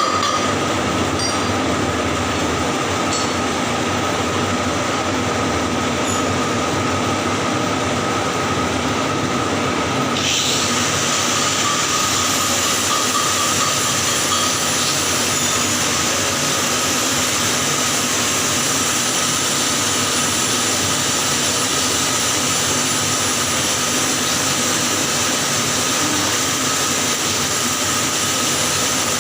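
Steady welding noise on pipe: a continuous hiss with a steady high whine through it, turning brighter and fuller about ten seconds in.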